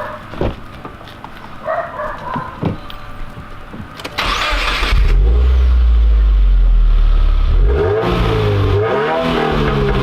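A car engine cranks and catches about four seconds in, then runs steadily. Near the end it is revved up and falls back.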